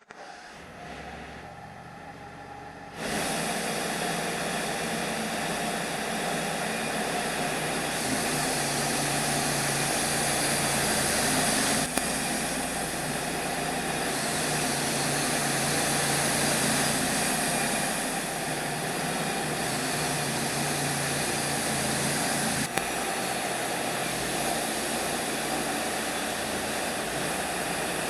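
Wood-Mizer LT35 band sawmill running steadily, stepping up sharply in loudness about three seconds in.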